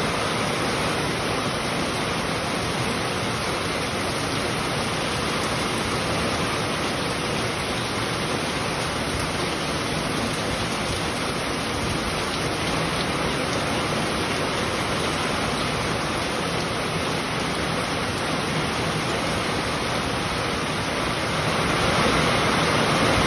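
Heavy rain pouring down steadily, a dense even hiss of water, growing a little louder near the end.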